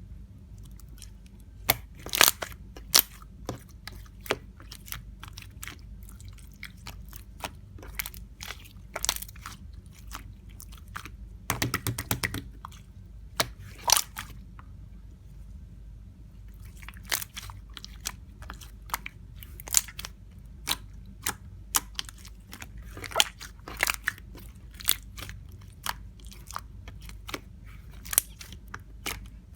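Slime being pressed and squished by hand, giving irregular sharp clicks and small pops. A quick run of clicks comes about twelve seconds in.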